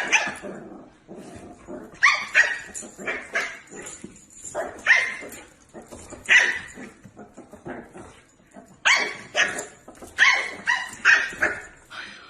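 A dog barking repeatedly, about a dozen sharp barks in clusters of two or three.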